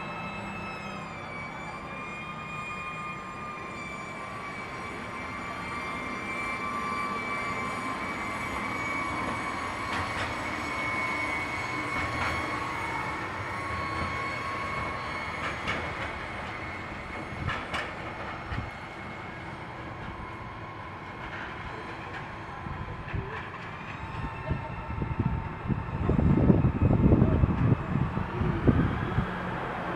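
Electric train in a station: a steady motor whine made of several tones, dipping slightly in pitch about a second in, with occasional sharp clicks. Loud rumbling and clattering of wheels on the rails builds near the end.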